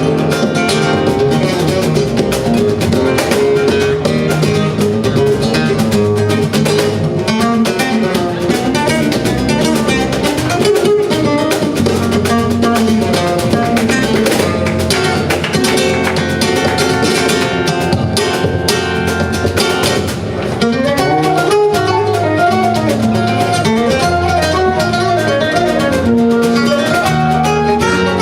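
Flamenco guitar playing steadily, a dense run of plucked notes.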